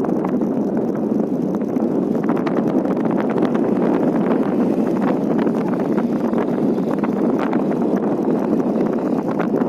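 Strong wind buffeting the microphone: a steady, loud rushing with frequent crackles.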